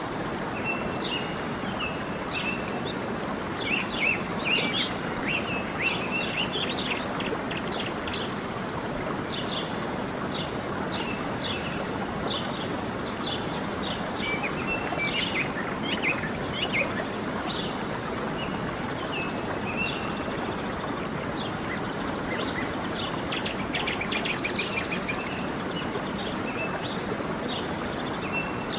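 A stream's steady rushing water, with small birds chirping and trilling over it in quick, scattered calls.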